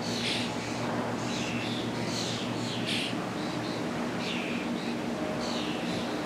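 Birds calling over and over, short high calls that slide down in pitch, roughly two a second, over a faint steady low hum.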